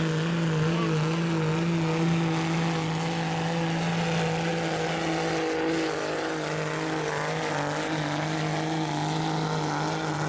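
Diesel pickup truck engine held at high, steady revs under load while pulling the sled down the track, its pitch sagging slightly a little past halfway.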